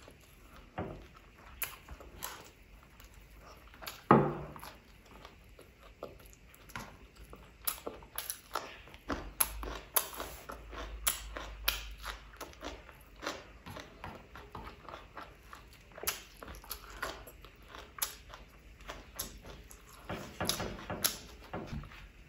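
Close-miked eating sounds: chewing and lip smacking on a mouthful of rice and chicken curry eaten by hand, with many short wet clicks. One louder smack comes about four seconds in.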